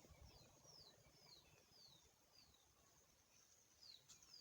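Faint bird calls in a quiet rural background: a string of short high whistles, each falling in pitch, about one every half second, then two more near the end.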